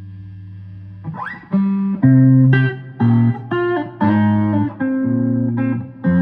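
Guitar playing. A held chord rings out, then about a second in a rising note leads into a run of single picked notes, each held for a fraction of a second.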